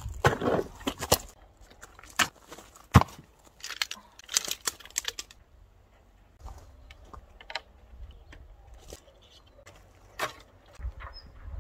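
Clinks, knocks and rustling of camping gear being handled, busy for the first five seconds, then sparser with an occasional sharp click.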